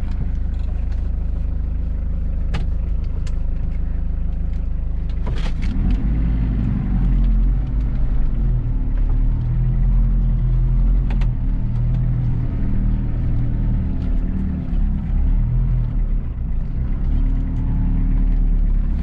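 Mitsubishi Pajero's 4D56 four-cylinder turbo diesel running at a steady idle for about five seconds. After a sharp click, the engine note rises and varies as it takes load.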